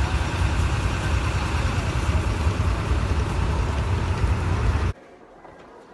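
Engine running steadily with a deep rumble, cutting off suddenly about five seconds in.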